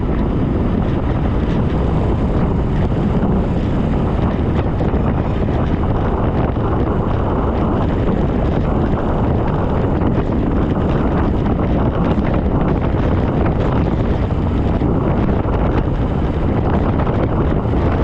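Steady, loud wind rush buffeting the microphone of a camera riding on a bicycle, a dense low rumble that does not let up.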